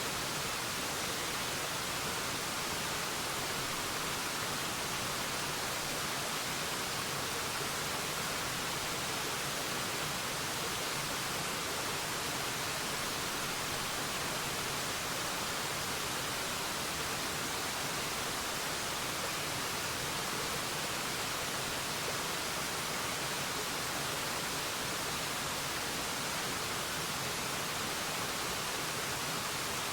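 Waterfall: a steady, unbroken rush of falling water, hissy and even, with no changes or separate splashes.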